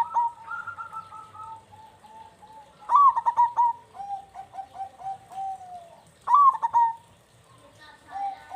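Zebra dove (perkutut) singing: trains of quick, soft cooing notes, broken by a loud burst of notes about three seconds in and again a little after six seconds.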